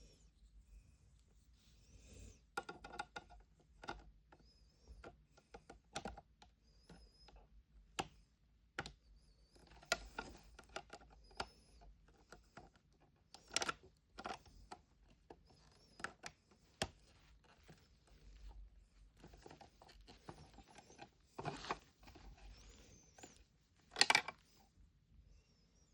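Small plastic toy pieces clicking and tapping as they are handled and set in place, with soft rustling between the taps; the sharpest tap comes near the end.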